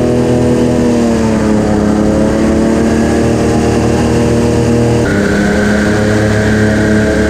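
Airboat's Chevy LS2 V8 engine and propeller running loudly at a steady speed. The pitch sags slightly about a second in, and the sound shifts abruptly about five seconds in.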